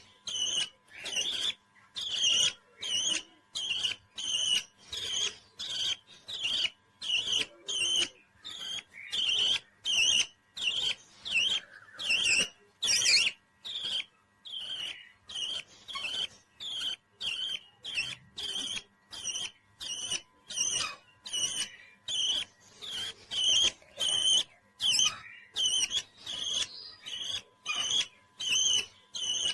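Parrot chirping in a steady series of short, high calls, a little under two a second, with a few louder calls among them.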